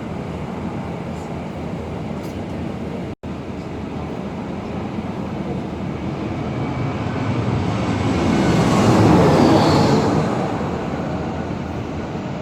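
Tour bus driving, a steady rumble of engine and road noise, which cuts out for an instant about three seconds in. Around eight seconds in, a louder rushing noise with a slight falling whistle swells and fades as something passes close by.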